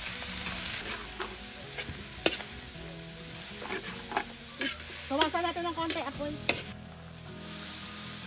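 Pancit bihon stir-frying in a steel wok over a wood fire: a steady sizzle, with a metal ladle scraping and knocking against the pan as the noodles are stirred. Soy sauce is poured from the ladle into the hot wok at the start, and a brief wavering squeak comes about five seconds in.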